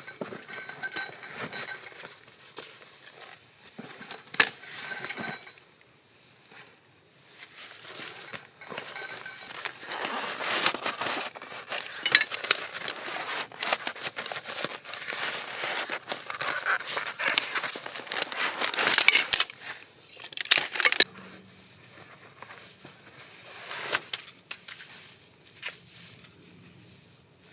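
Irregular crunching and crackling with scattered clinks of cookware, louder in the middle stretch and quieter near the end.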